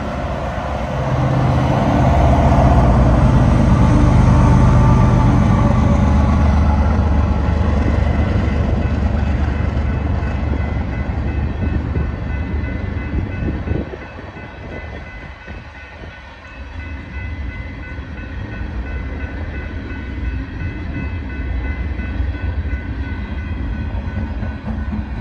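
Norfolk Southern freight train passing close by. The diesel locomotives' engines rumble loudly for the first several seconds, then the freight cars roll past more quietly, steel wheels running on the rails.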